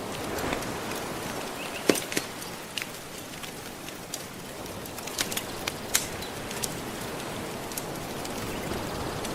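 Wood fire crackling with scattered sharp pops, the loudest about two seconds in, over a steady wash of gentle ocean waves.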